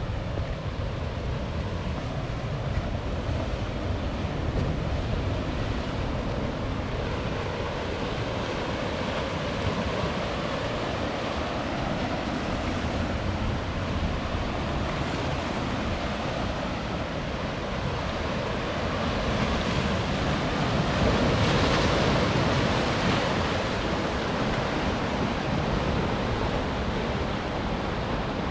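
Ocean surf breaking on rocks: a continuous rushing wash with a deep low rumble, swelling louder as a bigger wave breaks about twenty seconds in.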